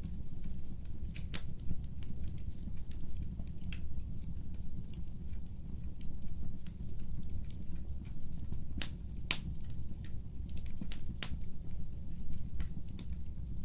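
Fireplace fire crackling: a steady low rumble of the flames with irregular sharp crackles and pops, a few of them louder, around nine seconds in.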